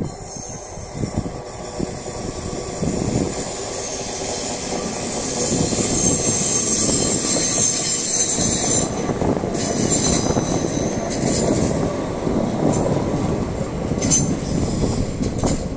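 Siemens Desiro class 460 electric multiple unit passing close by: the rumble of wheels on rail builds to its loudest about two-thirds of the way through, with a high-pitched wheel squeal over it.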